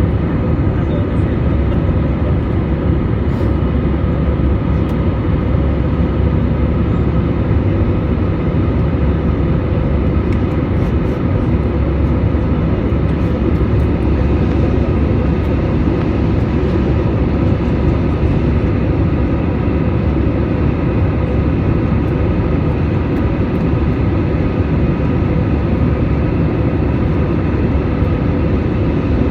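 Airliner jet engines running loudly and steadily, heard from inside the passenger cabin as a dense roar with several steady whining tones above it.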